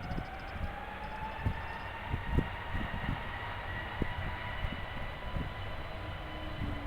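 Jet airliner's engines whining, the pitch rising slowly and steadily, over a steady rush of engine noise. Irregular low thumps run underneath.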